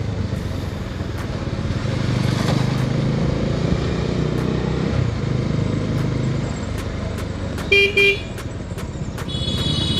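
Bajaj Dominar 250 motorcycle riding along a road, its single-cylinder engine and road noise running steadily. A vehicle horn beeps twice briefly about eight seconds in, and a higher-pitched horn sounds near the end.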